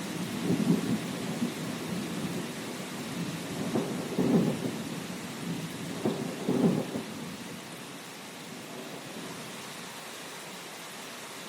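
Thunderstorm: steady rain falling, with thunder rumbling in low swells during the first seven seconds, then only the rain.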